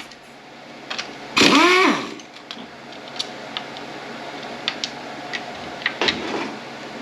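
A brief vocal sound about a second and a half in, then a string of light, scattered clicks and taps of plastic and metal parts as the transmission's wiring harness and speed sensors are worked loose by hand.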